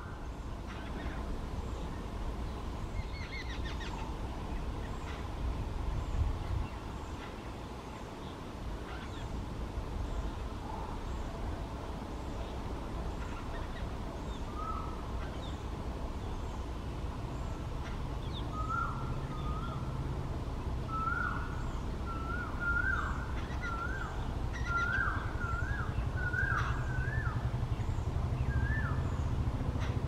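A bird calling: short notes that rise and fall, a few at first, then in quick uneven series through the second half. A low rumble runs underneath, joined by a steady low hum a little past halfway.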